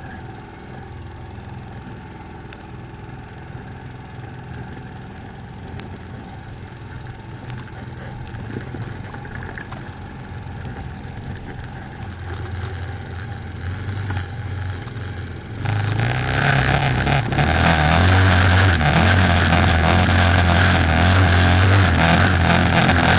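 200 cc ATV engine running at low speed with scattered light clicks, then about two-thirds of the way through it suddenly gets much louder as the quad accelerates and runs hard.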